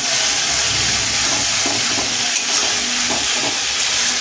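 Spice paste (masala) sizzling in hot oil in a steel kadai as it is stirred and fried down (kasha), a steady frying hiss.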